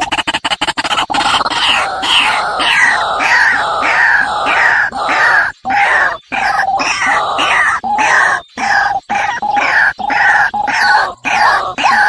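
An animal's harsh calls, repeated about twice a second with short breaks.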